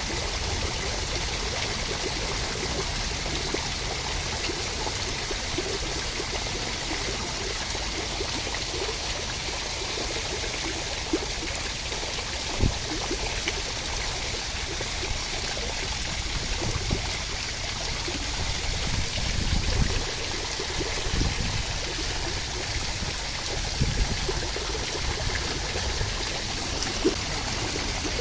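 Steady rain, an even rushing hiss of water, with a few brief louder taps scattered through it.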